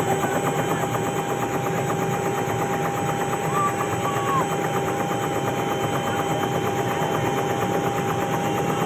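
Helicopter running close by: a rapid, steady chop of the rotor blades with a constant turbine whine over it.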